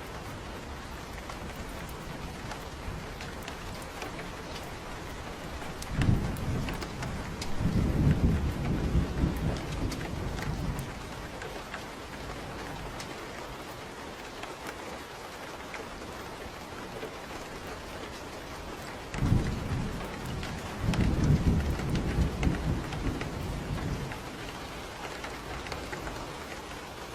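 Steady rain falling, with two rolls of thunder: each starts with a sharp crack and rumbles low for about five seconds, the first about six seconds in, the second near twenty seconds in.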